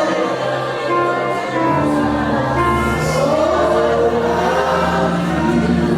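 Gospel worship music: a group of voices singing over sustained keyboard chords, with bass notes entering about two seconds in.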